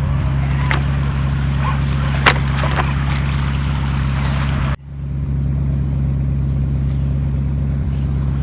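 Steady, even motor drone of a radio-controlled 4x4 car as it drops into a riverbed, with a couple of sharp knocks in the first few seconds. Near the middle the sound cuts out suddenly, then climbs back to the same drone within about half a second.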